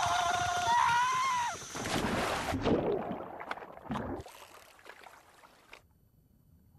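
A high, wavering call that glides up and down, followed by a swirling, bubbling water swoosh that fades and cuts off, leaving near silence.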